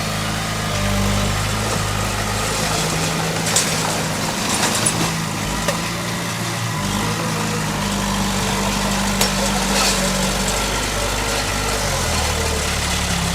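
Bulldozer's diesel engine running steadily, its pitch shifting up and down with load. A few sharp clanks come through, the loudest about 3.5 and 9 seconds in.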